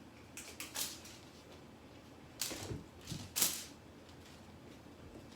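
A few short brushing swishes and light scuffs, the two loudest about two and a half and three and a half seconds in.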